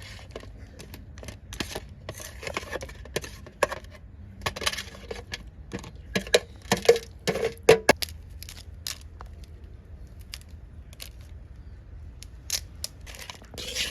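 Kitchen utensils and dishes clinking and knocking irregularly as food is handled, with a cluster of sharper knocks about halfway through.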